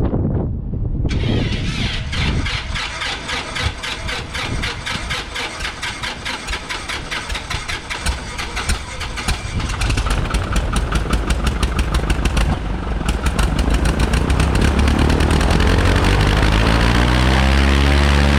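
Rockwell Commander 112A's aircraft engine being started: the starter cranks it for several seconds with uneven firing, then it catches about thirteen seconds in and settles into a louder, steady run.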